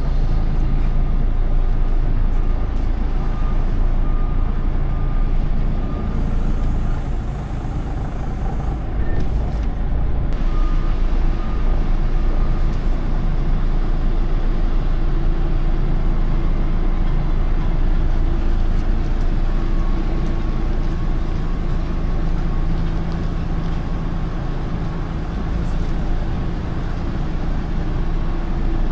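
Semi truck's diesel engine running steadily while the truck is driven, a continuous low rumble.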